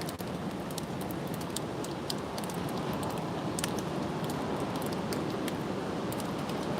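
Strong wind blowing steadily, with a rustling hiss and many small sharp ticks scattered through it.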